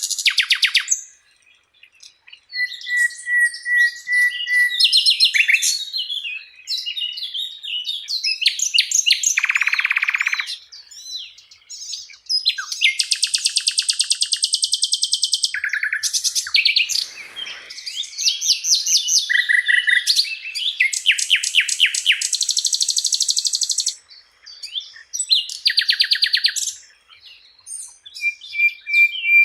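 A sikatan londo (flycatcher) singing a long, varied song of fast trills, rattles and buzzy phrases, mixed with held whistled notes, with brief pauses between phrases.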